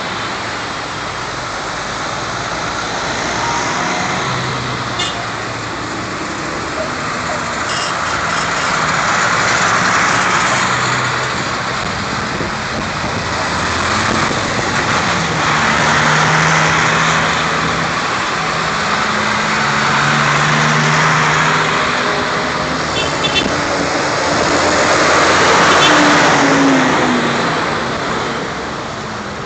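Tractors driving past one after another, the engine noise swelling as each one passes, about every five seconds.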